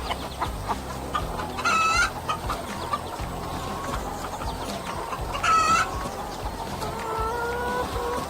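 Chickens clucking, with two louder calls about two seconds and five and a half seconds in, over a steady low hum.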